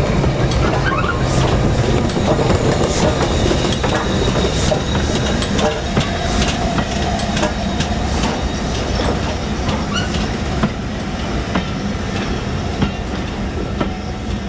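Heritage train running past on the line, its wheels clattering over the rail joints in a dense, irregular clicking over a steady rumble. It eases off slightly over the last few seconds.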